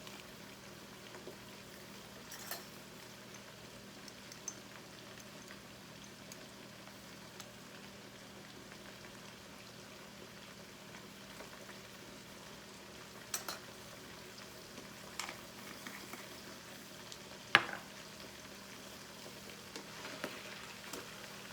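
Chicken, onion and spices frying in oil in a pot, a steady soft sizzle, with a few sharp knocks, the loudest about three quarters of the way through.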